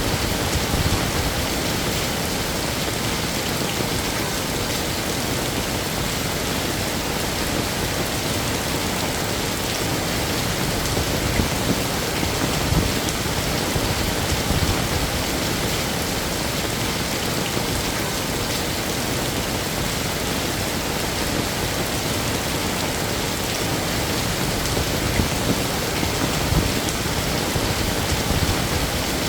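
Heavy rain falling steadily, a dense, even hiss of drops on hard surfaces.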